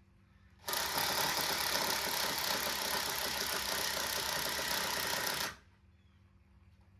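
A power tool running for about five seconds, starting abruptly and cutting off, while new boards are being fitted to the pathway.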